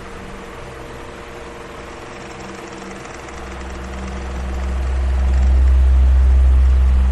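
Electric fan running with a steady whir of moving air over a faint motor hum. A low rumble of air hitting the microphone fades and then swells again, loudest near the end.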